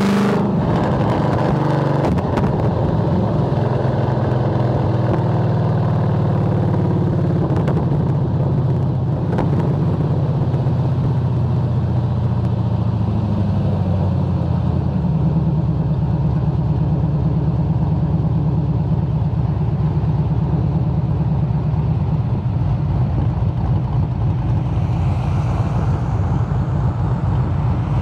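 Holden VY SS Commodore's 5.7-litre LS1 V8, heard from outside the car as it drives. The engine note falls as the car slows, then settles into a steady low run.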